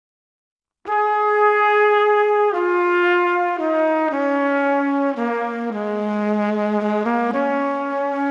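Music: a slow solo melody on a brass instrument, starting about a second in and moving in held notes that step downward and then climb back up.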